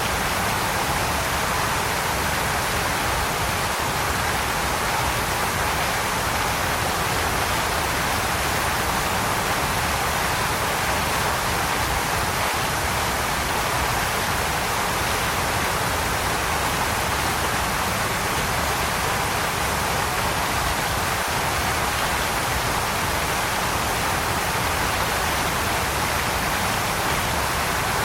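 Waterfall: falling water rushing in a steady, unbroken roar of noise with a low rumble underneath.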